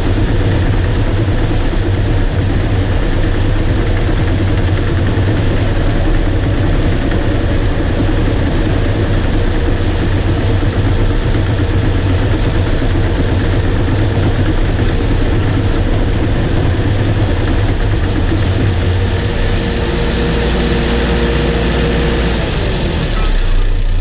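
Bulldozer's diesel engine running steadily with heavy mechanical clatter and noise, its note dropping lower about twenty seconds in.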